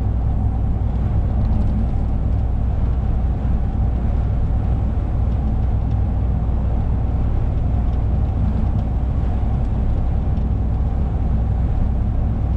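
Lorry driving at steady speed, heard from inside the cab: a constant low drone of engine and road noise with no changes.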